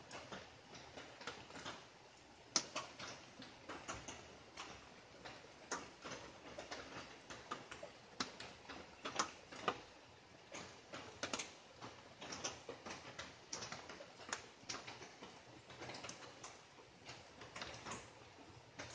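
Light rain: drops tapping irregularly on leaves and surfaces, several small ticks a second, over a faint steady hiss.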